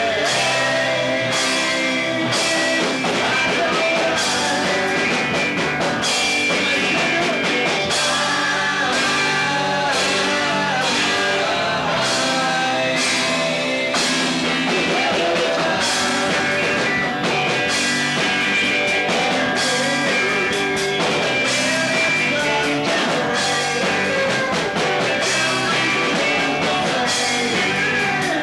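A rock band playing live: electric guitars and drum kit at a steady beat, with voices singing.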